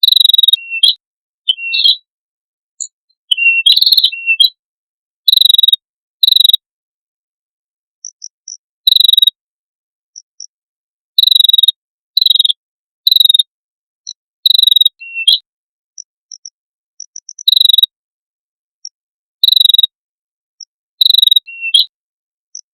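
Songbird-training recording: a string of short, harsh, high chirp bursts, each about a third of a second long, at irregular intervals with dead silence between. Faint, higher single pips fall in some of the gaps.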